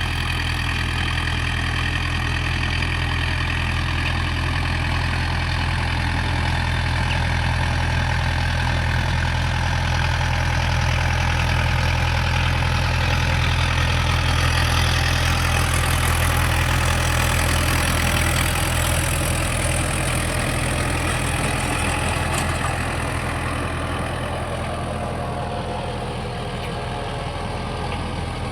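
Tractor's diesel engine running steadily, a little louder around the middle and easing off near the end.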